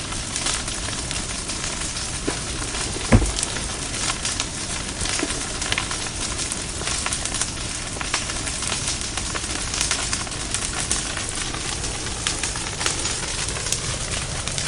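Wood bonfire burning, a steady hiss with many small crackles and pops, and one louder low thump about three seconds in.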